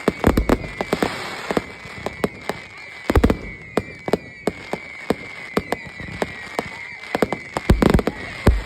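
Fireworks going off: a rapid run of sharp cracks and pops, with heavier bangs near the start, about three seconds in and near the end, over a steady high whistle that slowly falls in pitch.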